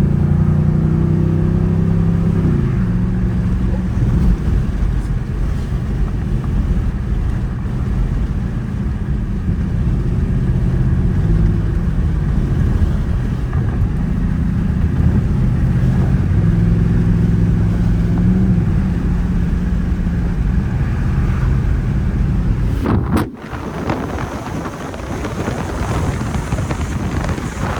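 Dodge Charger R/T's 5.7-litre Hemi V8 running under way, its low note shifting in pitch as the car pulls away and changes speed. About 23 s in, the engine note drops away suddenly, leaving a rushing wind noise.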